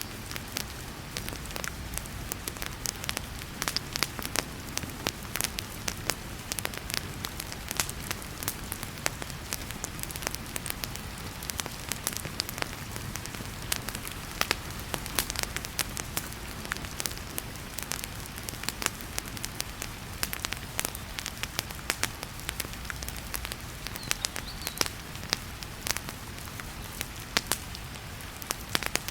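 Wood fire crackling in a fireplace, with frequent sharp pops and snaps, over a steady hiss of heavy rain and a low rumble.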